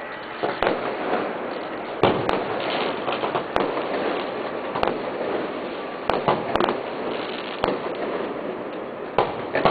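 Fireworks going off: about ten sharp bangs from bursting shells at uneven intervals, several close together a little past the middle, over a steady noisy background.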